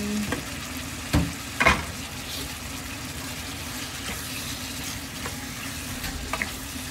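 Chicken hearts sizzling as they are stir-fried in a pan with garlic, onion and ginger. Two sharp knocks come close together about a second and a half in, over a steady low hum.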